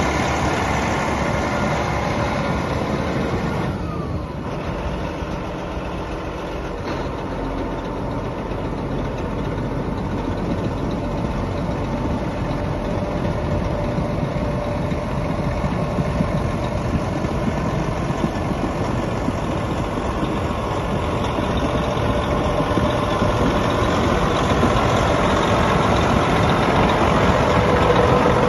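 John Deere 9430 four-wheel-drive tractor's large diesel engine running steadily, easing off a little about four seconds in and building slightly louder toward the end.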